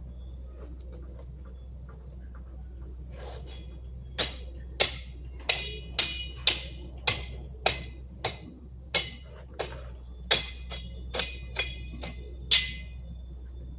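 A run of about sixteen sharp strikes, each with a brief ring, roughly two a second, starting about four seconds in and stopping near the end, over a steady low hum.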